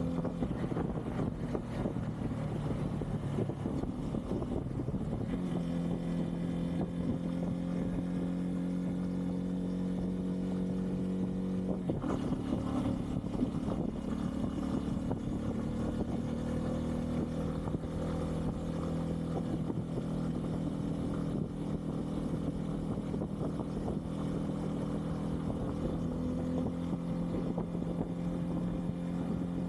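Bajaj Pulsar N250's single-cylinder engine running steadily at cruising speed, heard from the rider's camera. The engine note rises a little about five seconds in and shifts briefly about twelve seconds in.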